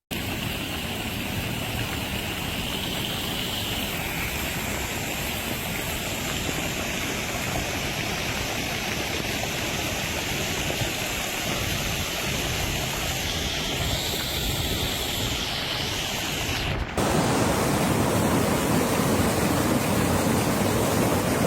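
Steady rushing noise of flowing floodwater and rain. About seventeen seconds in, a cut brings a louder, deeper rush.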